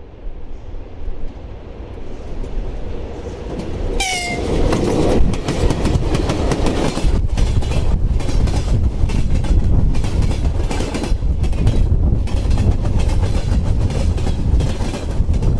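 A train passing close by: it rises out of a low rumble, and about four seconds in there is a short horn blast whose pitch falls. Then comes a steady rhythmic clickety-clack of wheels over rail joints under a heavy low rumble, with wind from the train buffeting the microphone.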